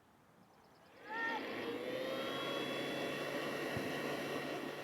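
Steady aircraft engine noise with a faint whine, coming up quickly about a second in and holding steady. A brief shout sounds just as it rises.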